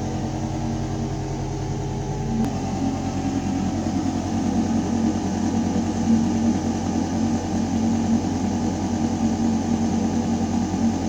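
Building ventilation shaft hum: a steady, deep mechanical drone of air moving through metal ductwork, with several constant low tones over an airy rush. A faint tick comes about two and a half seconds in, where the low hum shifts slightly.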